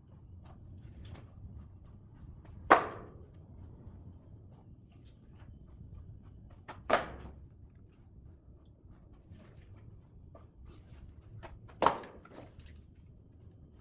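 Split oak firewood logs knocking as they are set down on a woodpile: three sharp wooden knocks about four to five seconds apart, with faint clicks and shuffling between them.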